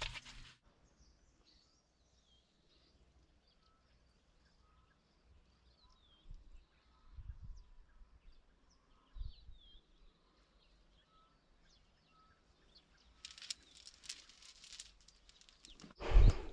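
Faint birdsong outdoors: scattered short chirps and little sliding whistled notes. A few low bumps sound in the middle, and a short spell of rustling or splashing noise comes near the end, with a louder burst of the same noise at the very start.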